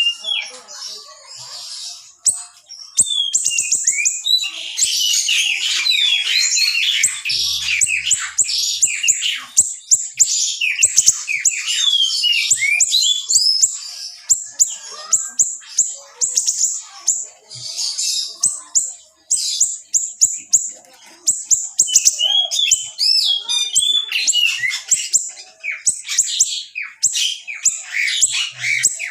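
A small songbird singing a fast, dense, high-pitched song of sharp chirps, rattling trills and quick slurred whistles, sparse at first and packed tight from about four seconds in, with only brief pauses.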